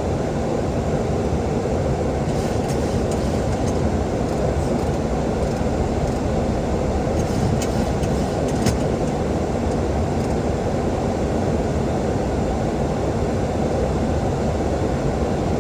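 Steady flight-deck noise of a Boeing 737-800 in flight: a constant rush of air and engine rumble, with a few faint clicks.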